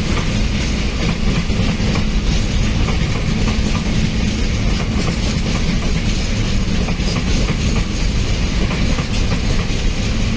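Container freight train rolling past, its loaded flat wagons' wheels giving a steady rumble and clatter on the rails.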